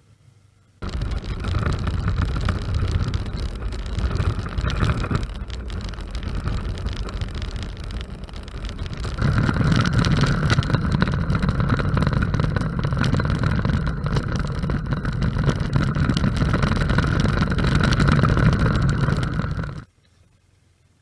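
Motorcycle on the move: engine and wind noise, cutting in sharply about a second in, growing louder about halfway through, and cutting off just before the end.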